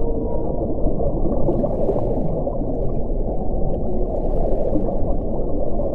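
Low, heavy wind blowing steadily with faint moaning tones, and brief hissing gusts about two seconds and four and a half seconds in.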